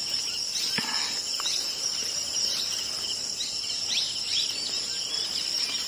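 Insects' steady, high-pitched drone, with short bird chirps now and then.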